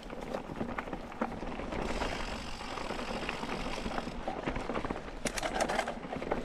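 Mountain bike rolling over a dirt trail: steady tyre and wind noise with scattered knocks and rattles from the bike, and a cluster of sharp clicks about five seconds in.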